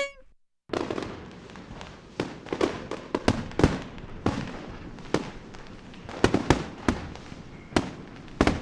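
Fireworks going off: an irregular string of bangs and crackling pops that starts under a second in, with sharper cracks clustered around three to four seconds in and again around six seconds in.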